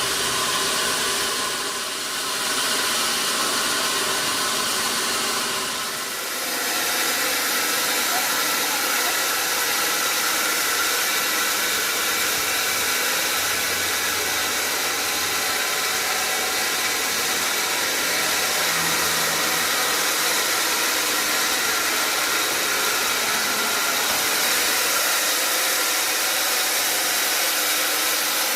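Sawmill machinery running steadily, a constant high hiss with a thin whine over it, dipping briefly twice in the first few seconds.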